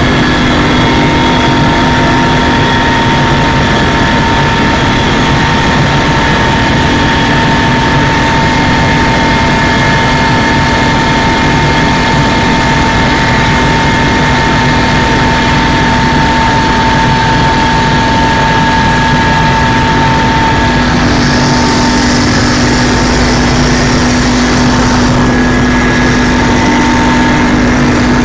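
Helicopter in flight: a loud, steady drone of engine and rotor with several constant whining tones, and a brief extra hiss added a little past two-thirds of the way through.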